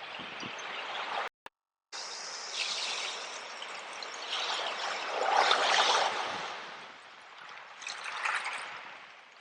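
Sea waves washing in, swelling to a peak about five to six seconds in and again near the end. The sound drops out briefly to silence about a second and a half in.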